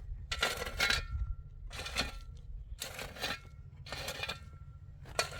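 Repeated metallic scraping strokes, about one a second, each with a faint ringing tone, over a steady low rumble.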